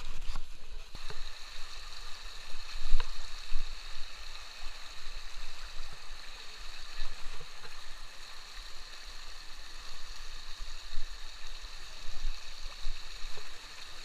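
Stream water rushing steadily over rocks, with a few sharp knocks, the loudest about three seconds in.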